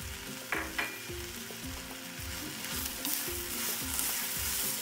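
Chopped onion, coconut and whole spices sizzling in hot oil in a small wok as a wooden spatula stirs them, sautéing the masala that will be ground for the curry. Two short sharp scrapes of the spatula on the pan come about half a second in, and the sizzle grows louder from about three seconds in.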